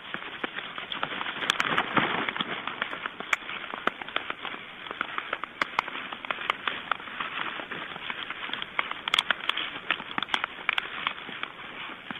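Stork clattering its bill: a rapid, dry rattle of clicks that carries on throughout, loudest about two seconds in and again near the end.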